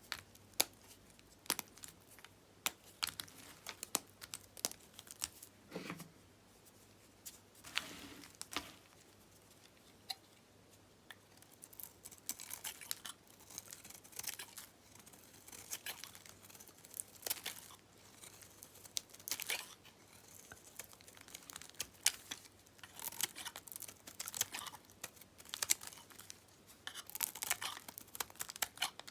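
Dyed bar soap being cut and crumbled with a knife: crisp crackles and crunches, with a short lull near the middle and denser runs of crackling toward the end.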